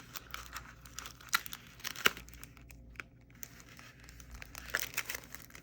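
Mail packaging crinkling and rustling as it is handled and opened, with a few sharp clicks and snaps.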